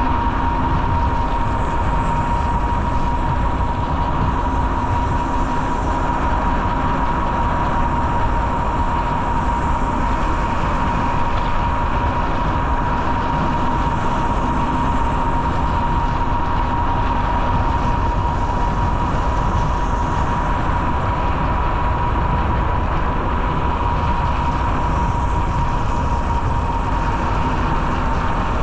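Steady rolling rumble of a bicycle riding along the trail, with a constant high whine running through it.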